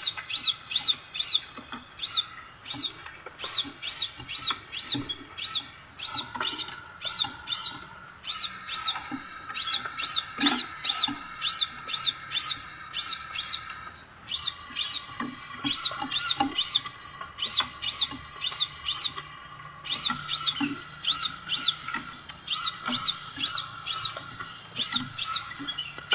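Scarlet minivet (sepah raja) calling: loud, short, high whistled notes repeated about two to three times a second, in runs broken by brief pauses every few seconds.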